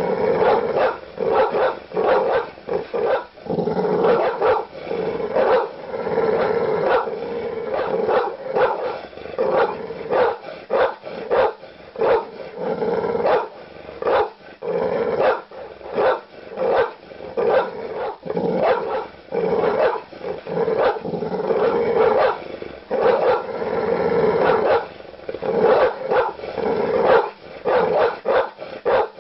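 Large dog barking aggressively in rapid, repeated deep barks, with stretches of longer snarling growls between them.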